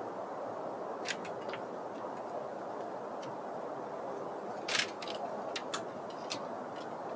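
Steady background noise with about a dozen sharp, irregular clicks and ticks scattered through it; a slightly longer, louder click comes a little under five seconds in.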